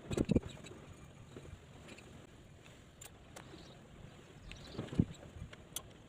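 Scattered knocks and light clicks, as of tools being handled on a work surface: a quick cluster of knocks right at the start, a few sharp clicks around the middle, and a single louder knock about five seconds in.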